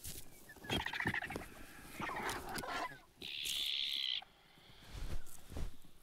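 Griffon vultures squabbling over a carcass: short, harsh rasping calls, then a hoarse, hissing screech about a second long midway through.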